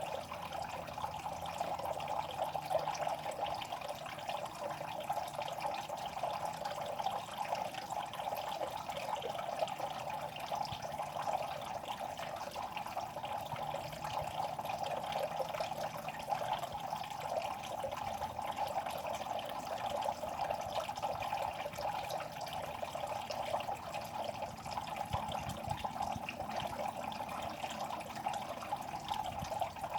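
Continuous trickling and small splashing of water in a fish pond, a steady crackly patter with no pauses, which the title puts down to the fish making noise at the surface.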